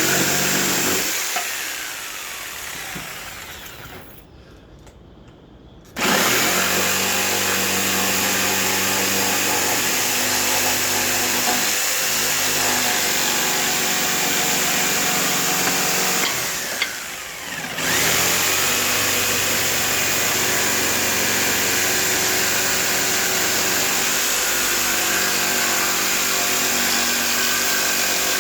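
Electric saw motor running, winding down over the first few seconds, then starting up again about six seconds in and running steadily, with a brief dip and pick-up around two-thirds of the way through.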